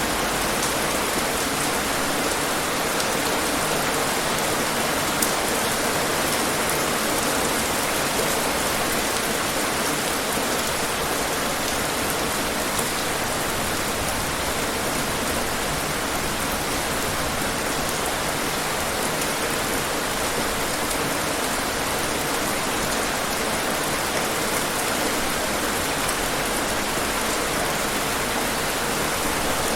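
Steady rain falling on surfaces, an even, constant patter, with one sharper drop tick about five seconds in.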